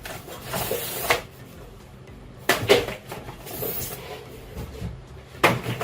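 Packaging being handled while unboxing: rustling with three knocks, near the start, about two and a half seconds in, and near the end, as items are pulled from a cardboard box.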